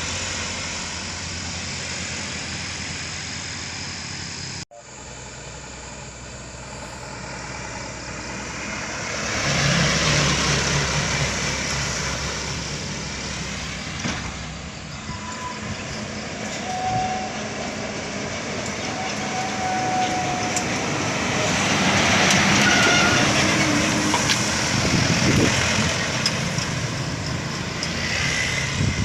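Truck engine working on a steep climb, with the road and traffic noise swelling and easing. The sound drops out for an instant about five seconds in, then builds up again, and a few short high tones come through around the middle.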